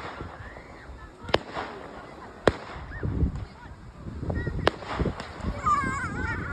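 Fireworks display: aerial shells bursting in sharp single bangs at uneven intervals, four in all, over a low murmur of crowd voices.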